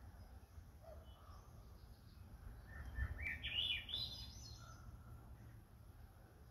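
A black bird's song: one series of squeaky notes climbing steadily higher, lasting about two seconds and starting a little before the middle, with a few faint single chirps before and after.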